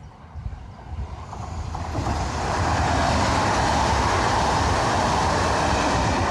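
Newag Impuls electric multiple unit passing close at speed. The rolling noise of its wheels on the rails builds over the first two seconds as it approaches, then holds as a loud, steady rush while the cars go by.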